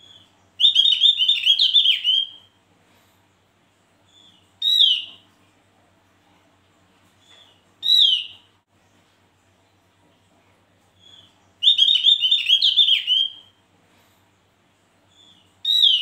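Javan grey-throated white-eye (opior jawa) singing: a rapid run of high notes about two seconds long, repeated about halfway through, with single short down-slurred calls between, each led by a softer note.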